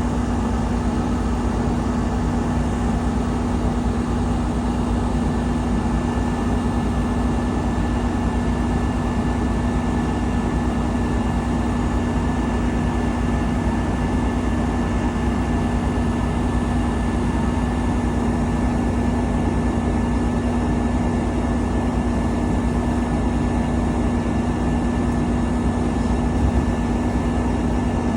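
Steady drone of a car driving along a road, tyre and engine noise with a constant low hum.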